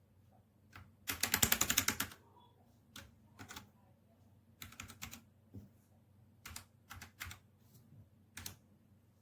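Redragon K617 Fizz 60% mechanical keyboard being typed on. A quick run of about a dozen keystrokes comes about a second in, followed by scattered single key presses.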